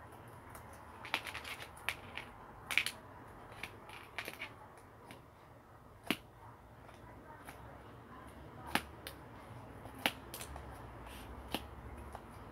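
A series of irregular sharp clicks and taps, about a dozen spread over several seconds, over a faint steady background hiss.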